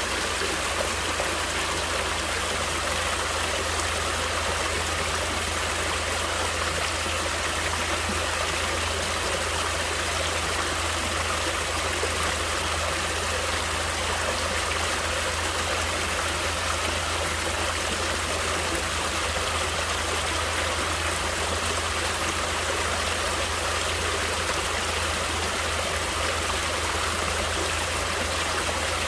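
Natural stream of running water flowing steadily, an even, unbroken hiss of water.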